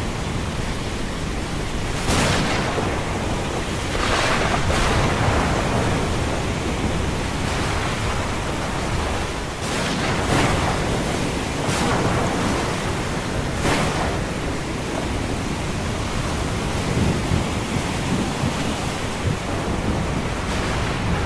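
Ocean surf and rain in a steady roar, with several louder surges as waves break every few seconds, over a low rumble of thunder.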